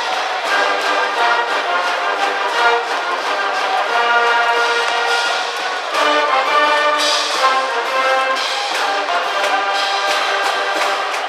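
High school brass band playing a baseball cheering tune, with trumpets and trombones carrying the melody.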